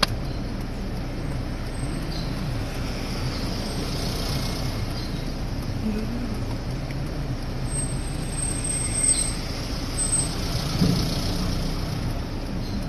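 Storm wind and rain as a steady rushing noise, with a few brief louder gusts.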